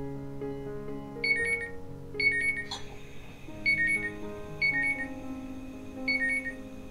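Smartphone probe-thermometer app (Redi Chek) alarm sounding repeated two-note electronic beeps, about one pair a second: the water in the egg pot has dropped to 65.9 °C, just below the set 66 °C lower limit. About 3 seconds in, a gas burner clicks and the flame is turned up to high, followed by a faint hiss, over background music.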